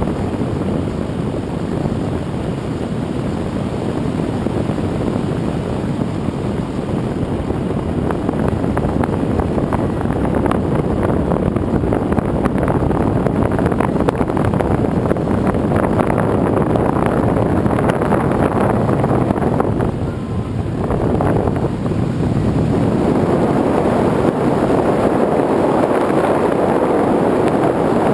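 Radio-controlled airplane's motor and propeller running in flight, heard from a camera carried on the plane, with wind rushing over the microphone. The noise is steady and loud, dipping briefly about twenty seconds in.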